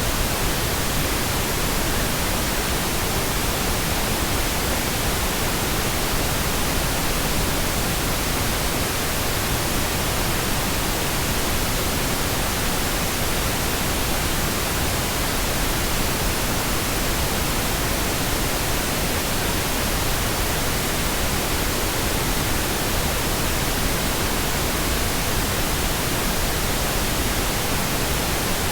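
Steady pink noise: an even, unchanging hiss spread across the whole frequency range, with no breaks or changes.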